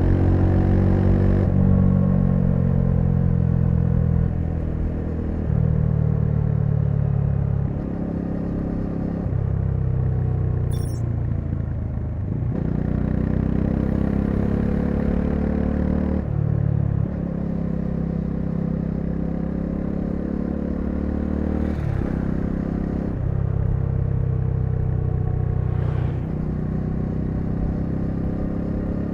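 Bajaj Dominar 400's single-cylinder engine under way, its note rising as it accelerates and then dropping suddenly at each gear change, many times over.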